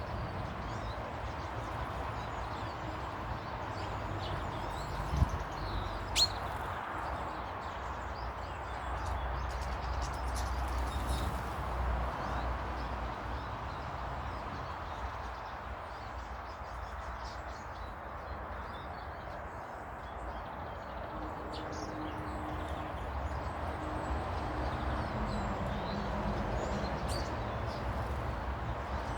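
Small birds chirping here and there over steady outdoor background noise, with two short, sharp sounds about five and six seconds in.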